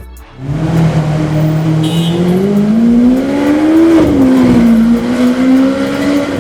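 Supercar engine accelerating, its pitch climbing steadily for about four seconds, then dropping at a gear change and holding steady.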